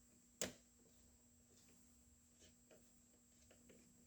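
Near silence, broken by one sharp click about half a second in and a few faint light ticks after it.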